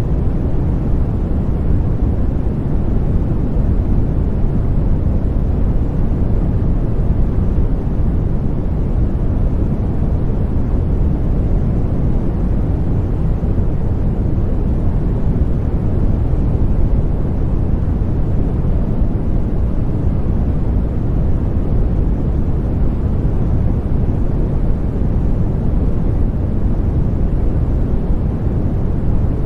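Steady white noise with a deep, bass-heavy rush, even and unchanging throughout.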